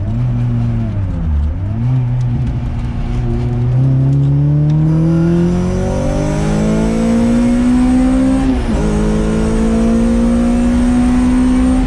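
Honda CRX's four-cylinder engine accelerating hard through the gears, its exhaust toned down by a newly fitted rear muffler. The revs dip briefly about a second in, climb steadily, fall sharply at an upshift about eight and a half seconds in, then climb again until another shift at the very end.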